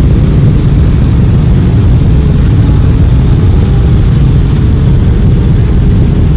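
Motorcycle engines from a large group of bikes running together, a steady loud low rumble with engine notes rising and falling as individual bikes rev.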